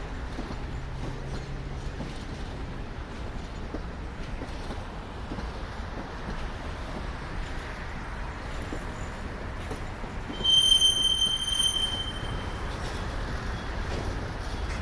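Freight train cars rolling past with a steady rumble of wheels on rail. About ten seconds in, a wheel flange gives a loud, high squeal for about a second and a half.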